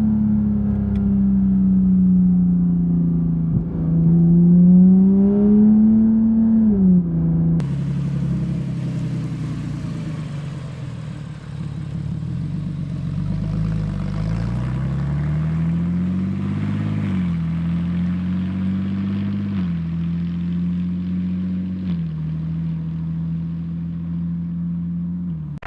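Porsche 987.2 Cayman S flat-six engine, running through a partly finished, unmuffled straight-pipe exhaust, accelerating on the road. Its pitch rises and falls, the sound changes abruptly about a third of the way in, and later the pitch climbs and drops three times as it shifts up through the gears.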